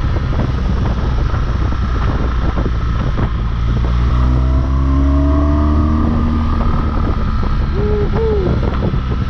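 BMW R1200GS Rallye's boxer-twin engine under way, with wind rushing over the microphone. The engine note rises about four to six seconds in as the bike accelerates.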